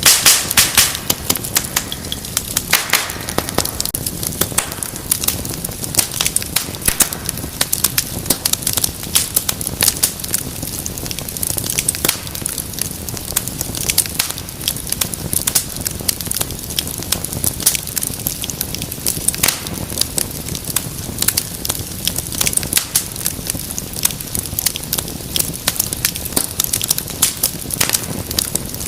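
Wood fire crackling and popping steadily, with many irregular sharp snaps over a low, steady rustle of flames.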